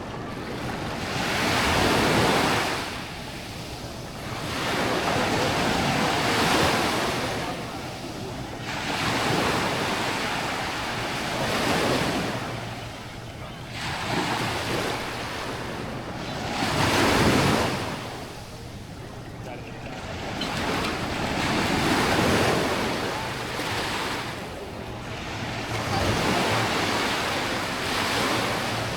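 Small waves breaking and washing up on a sandy shore, the surf swelling and fading every few seconds.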